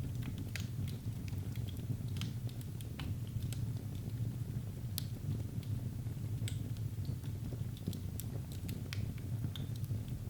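Wood fire crackling in a fireplace: irregular sharp pops and snaps, several a second at times, over a low steady rumble.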